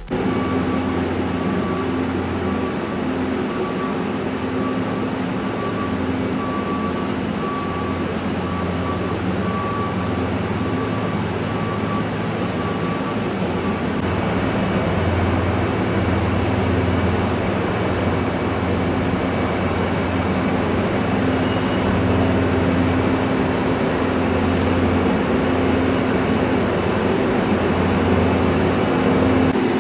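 Diesel engine of a Storti Dobermann self-propelled feed mixer wagon running steadily. A faint high tone repeats on and off through the first half, then stops about halfway.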